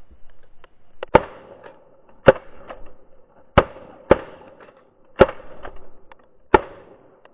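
Shotgun blasts at diving ducks: six loud shots fired at uneven spacing over about six seconds, two of them in quick succession about half a second apart, each with a short echoing tail.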